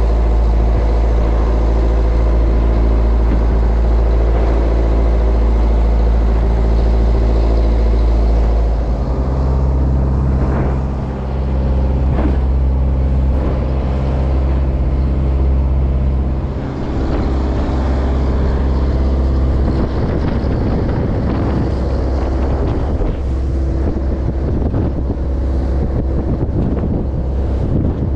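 A Japanese bottom trawler's diesel engine running steadily, its note shifting about nine seconds in and again around twenty seconds as the engine speed changes.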